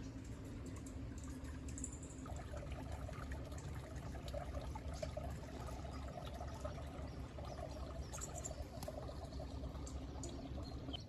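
Small mountain creek trickling and gurgling steadily, the gurgle growing fuller about two seconds in.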